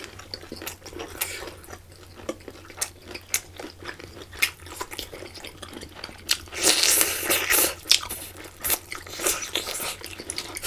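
Close-miked eating sounds of a person chewing cooked octopus: many short wet clicks and smacks, with a louder stretch of crunching about two-thirds of the way through.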